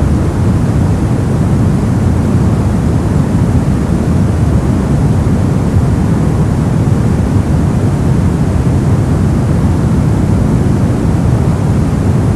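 Brown noise: a steady, deep rumbling hiss with most of its energy in the low end, fading off toward the highs.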